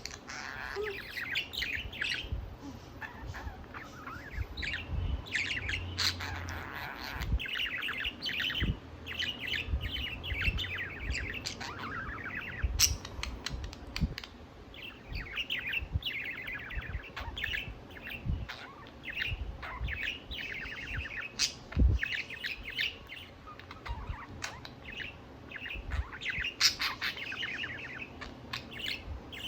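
Pet budgerigar warbling and chattering: a near-continuous run of fast chirps and warbles, with scattered sharp clicks.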